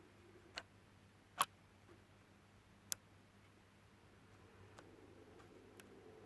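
A few sharp, separate clicks over quiet room tone with a low hum; the loudest click comes about one and a half seconds in, another about three seconds in.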